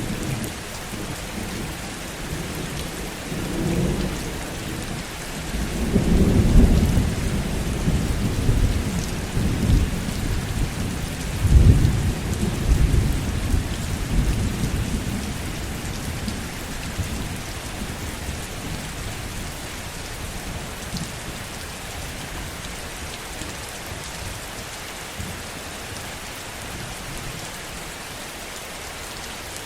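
Heavy rain falling steadily, with a long rolling rumble of distant thunder that builds over the first few seconds, is loudest about twelve seconds in, and dies away, leaving only the rain.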